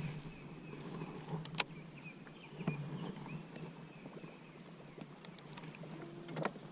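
Quiet river ambience: faint, short chirps of birds or insects repeat over a low steady hum, with one sharp click about a second and a half in.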